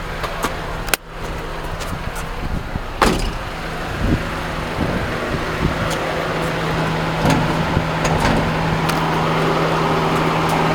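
1991 Honda Civic Si's 1.6-litre D16A6 four-cylinder idling steadily. A car door opens about a second in and shuts with a sharp clunk about three seconds in.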